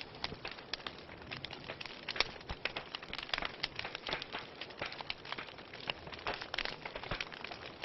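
Wood fire in a fireplace crackling, with frequent irregular sharp pops and snaps over a soft hiss.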